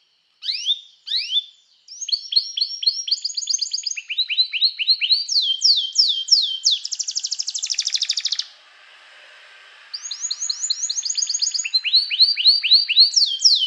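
Domestic canary singing: two short falling notes, then rapid trills of repeated chirps, each trill built from one syllable type before switching to the next. A very fast, dense roll comes in the middle, then a pause of about a second and a half before the trills start again.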